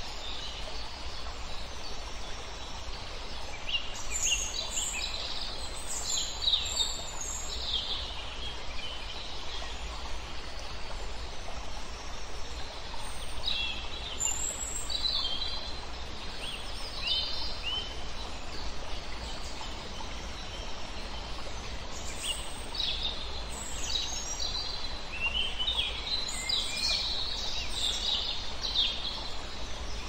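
Small birds chirping and singing in scattered bursts of short, high calls over a steady hiss of woodland ambience.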